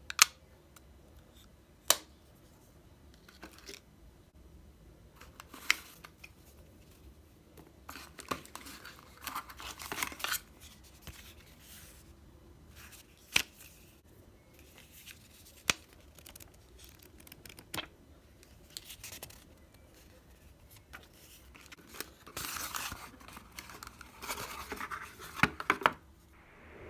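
Small items and packaging being handled during an unboxing: sharp clicks every few seconds, with longer stretches of rustling and scraping about a third of the way in and again near the end.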